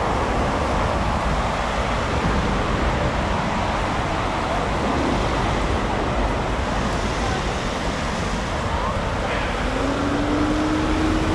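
Steady road and tyre noise of a car driving, with a faint rising tone near the end.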